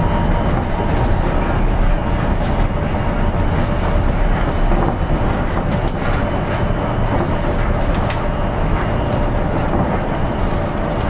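Interior running noise of an Osaka Metro 200 series New Tram, a rubber-tyred automated guideway train, travelling between stations. A steady low rumble carries a faint steady whine, with a few sharp ticks.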